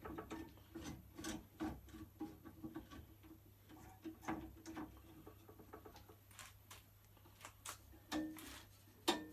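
Light, irregular clicks and knocks, several a second at times, with a louder knock near the end.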